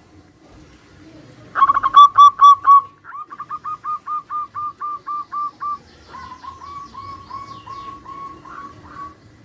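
Zebra doves (perkutut) cooing in short, rapid staccato notes. A loud run begins about a second and a half in, followed by an even train of about a dozen coos, then a fainter dove answering with a similar run.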